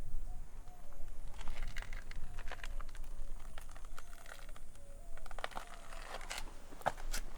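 Footsteps crunching on a gravelly dirt trail, an irregular run of crisp crunches that grows denser near the end.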